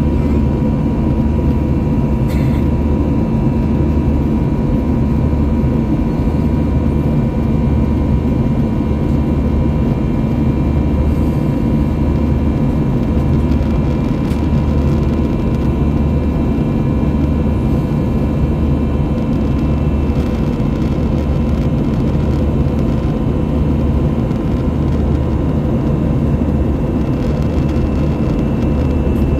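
Steady engine and airflow noise heard inside the cabin of an Airbus A321-200. A constant low hum carries a few fixed whining tones and a low throb that pulses about every second or so.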